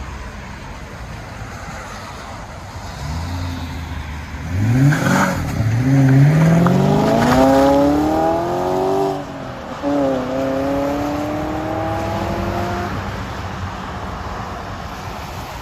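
BMW 540i's 4.4-litre V8 with a muffler delete, heard from inside the cabin under acceleration. It runs low and steady at first, then climbs in pitch through the gears from about a third of the way in, with short dips at the shifts. Near the end it settles to a steady cruise.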